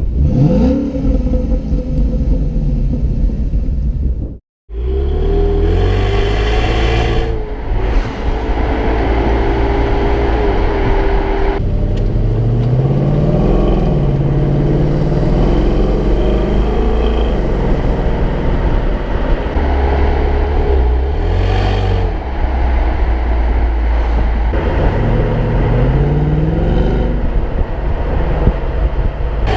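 A 2016 Ford Mustang engine is accelerating hard. Its pitch climbs and drops several times as it revs up through the gears. The sound cuts out completely for a moment about four and a half seconds in.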